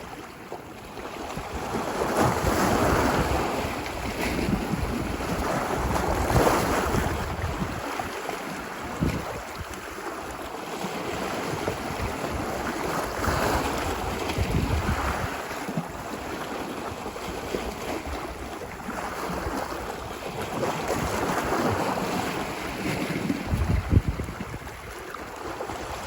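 Ocean waves washing onto a beach, a steady surf hiss that swells and eases every few seconds, with some low rumble from wind on the microphone.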